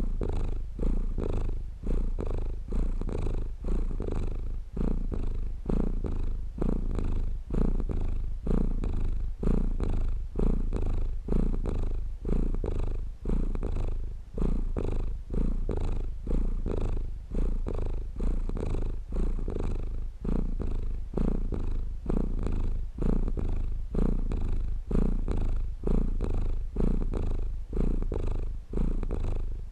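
Domestic cat purring continuously, the low rumble swelling and dipping in an even rhythm of roughly one cycle a second as it breathes in and out.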